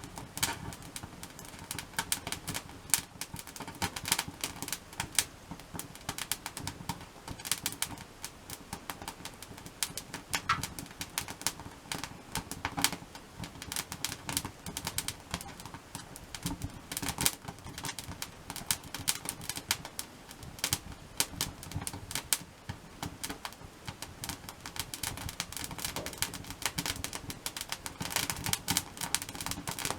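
Wood fire in a log-cabin (crisscross) stack crackling and popping, with many sharp irregular snaps throughout.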